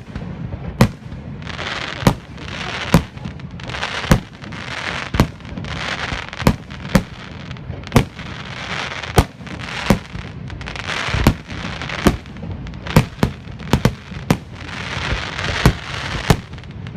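Fireworks going off: sharp bangs about once a second over a steady crackling hiss and low rumble, with a quick run of several bangs a little past the middle.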